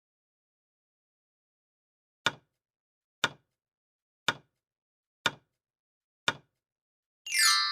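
Quiz countdown-timer sound effect: five sharp ticks, one a second, then a bright chime with a falling sweep begins near the end.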